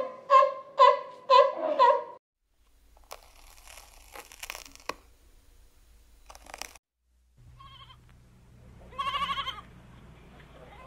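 A sea lion barks six times in quick even succession, the loudest sound here. Faint crackling and rustling follow. Then a lamb gives a short wavering bleat about nine seconds in, over a low steady hum.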